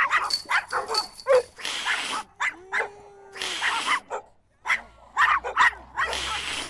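Dogs barking repeatedly, with a drawn-out whine or howl about three seconds in.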